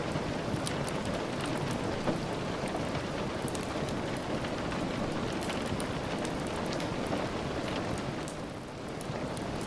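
Steady rain falling, with scattered sharp ticks and pops from a crackling wood fire over it; the rain eases slightly for a moment near the end.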